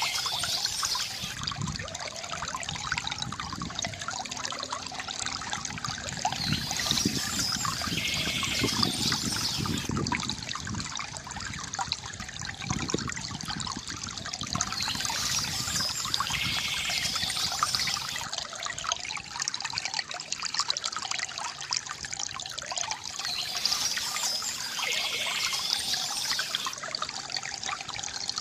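Water trickling and splashing steadily from a bamboo fountain, with short spells of bird chirping that come back about four times.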